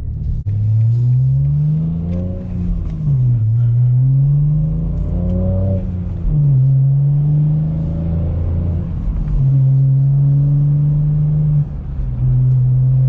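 BMW S58 twin-turbo straight-six in a G80 M3, running through a valveless catless race exhaust at low speed. The revs climb and drop twice, then hold steady, with a brief dip near the end.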